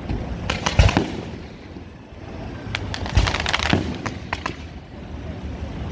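Fireworks going off at a display: a few bangs just under a second in, then a quick cluster of sharp cracks and bangs about three seconds in, with scattered pops after.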